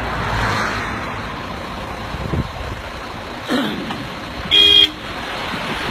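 Vehicle engine running steadily, with a short horn toot about four and a half seconds in.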